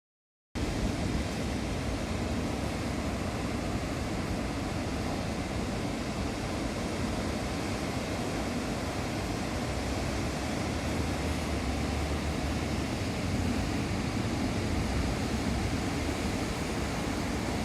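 Ocean surf from a heavy typhoon swell breaking on the coast: a steady, unbroken wash of noise that starts about half a second in.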